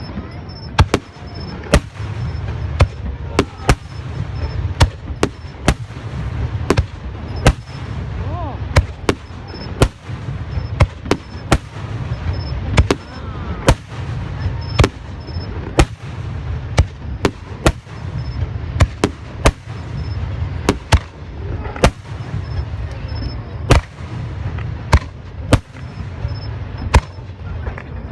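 Fireworks display: sharp bangs of shells going off one after another, at irregular intervals of about one to two a second, over a steady low rumble.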